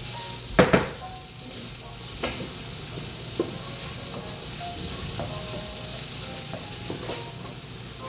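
Fried rice sizzling in a hot pan with the burner off, being stirred and tossed with a utensil. A loud double knock of the utensil against the pan comes about half a second in, with fainter knocks about two and three and a half seconds in.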